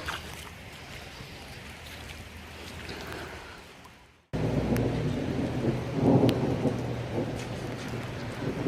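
Heavy rain falling, with scattered drops ticking close by. About four seconds in it fades out and cuts to a louder stretch of rain with a low rumble underneath.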